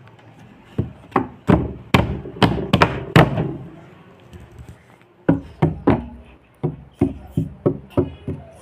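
A baby banging on a hard object like a drum: a run of uneven, sharp knocks, two to three a second, which pauses for about a second and a half midway and then starts again.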